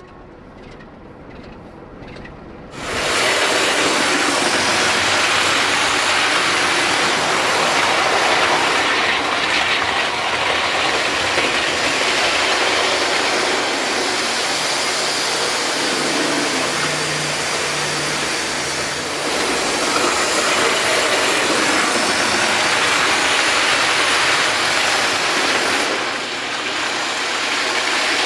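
Diesel train running, a loud, steady rush of noise that comes in suddenly about three seconds in after a quieter start.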